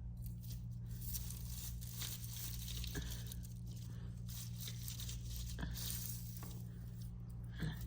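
Rustling and crinkling with a few faint clicks, over a steady low hum.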